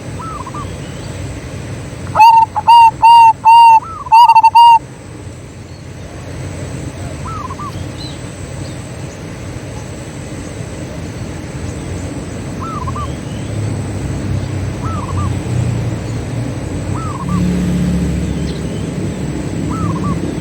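Zebra dove cooing: a loud, rapid run of about seven short, even coos a couple of seconds in, then faint coos answering every few seconds.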